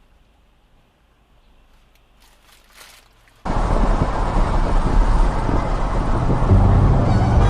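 About three and a half seconds of faint low noise, then an abrupt jump to loud, steady car driving noise (road and engine rumble with wind hiss) picked up by a dashcam.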